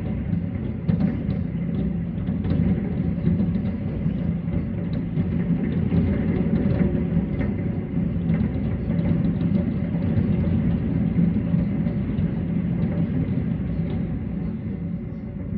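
Aerial fireworks bursting in quick succession, their booms running together into one continuous rumble with scattered crackles, easing off slightly near the end.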